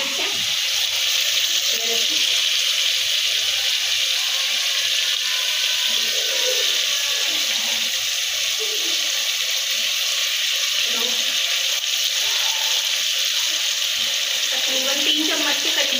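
Chopped tomatoes frying in hot oil in an aluminium pot, a steady sizzle: the masala base for chicken karahi cooking.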